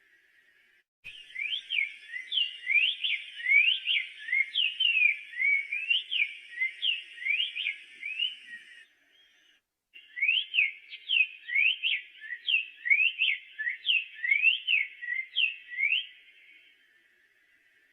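Black-faced tanager (sanhaço-de-coleira) singing: two long bouts of quick, slurred whistled notes sweeping up and down, each lasting several seconds, with a short break between them.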